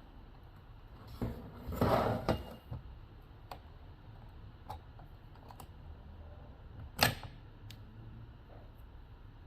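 Pliers and small chainsaw engine parts handled during piston removal: a short scraping rustle about a second in, then a scattering of light metallic clicks, with one sharper click about seven seconds in.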